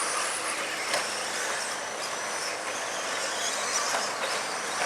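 Radio-controlled stadium trucks racing on a dirt track: a steady hiss of motors and tyres with faint high whines, and a couple of light knocks about a second in and near the end.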